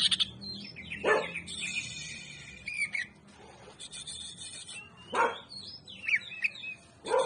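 Cucak ijo (green leafbird) in agitated full song: a rapid run of high chirps, trills and whistles, which keepers call 'ngamuk'. Two loud harsh calls drop steeply in pitch, one about a second in and one about five seconds in.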